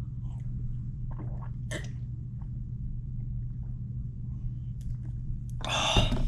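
Steady low hum of a washing machine running, with small swallowing and mouth sounds of someone drinking juice from a bottle. A loud breathy exhale comes near the end.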